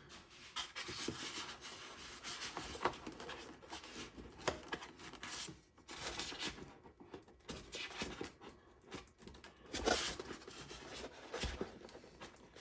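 Irregular scraping, rubbing and small clicks of a pick prying a battery out of its packaging, with a louder rustle about ten seconds in.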